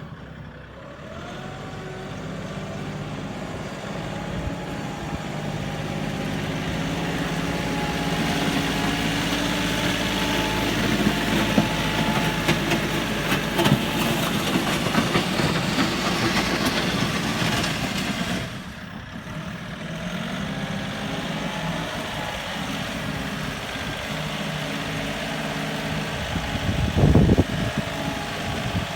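Kioti NX4510 tractor's turbo-diesel engine running as the hydrostatic tractor is driven around, growing louder over the first ten seconds or so. About eighteen seconds in the engine sound drops off sharply and settles to a lower steady run, with a brief louder rumble near the end.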